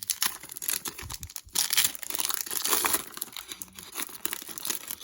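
Plastic trading-card pack wrapper being torn open and crinkled by hand: dense crackling and rustling, easing off about three seconds in.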